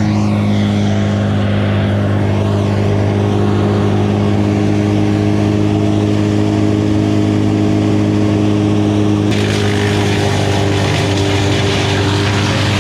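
An engine running steadily at a constant speed, its pitch not changing. About nine seconds in, a hiss rises over it.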